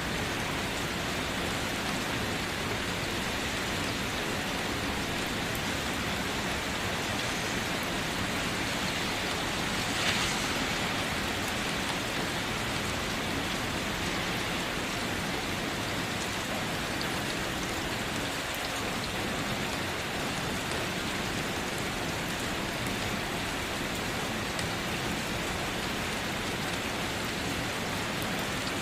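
Steady rain falling on a surface, a dense even patter of drops, with one brief louder splash about ten seconds in.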